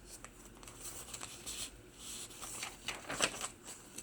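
Paper pages of a handmade journal being turned and handled: soft paper rustling with a few light ticks, a little louder about three seconds in.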